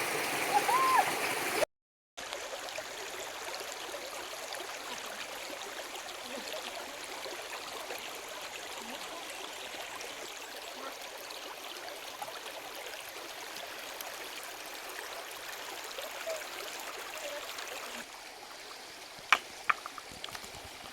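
A stream's water running steadily, a continuous rushing and gurgling. Two sharp clicks come close together near the end.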